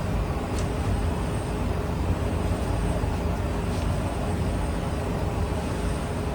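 A steady low mechanical rumble with a faint high whine running through it and a few light clicks.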